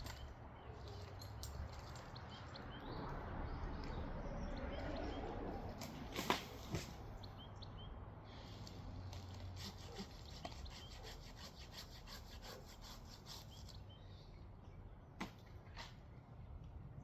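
Faint hand sawing of wood, with a sharp knock about six seconds in, a second just after it, and another near the end.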